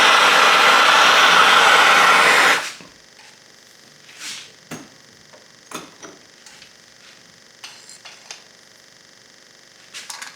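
A loud, steady rushing noise, like air blowing or a motor running, cuts off sharply about two and a half seconds in. Scattered light taps and clicks follow.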